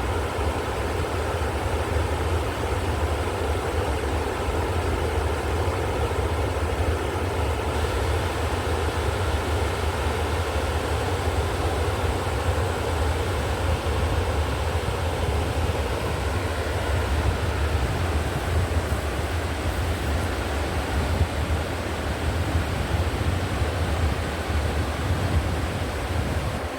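River water flowing: a steady, unbroken rush of noise with a strong low rumble underneath.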